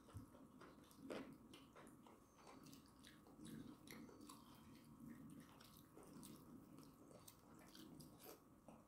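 Faint close chewing and wet mouth clicks of people eating rice and chicken curry with their hands.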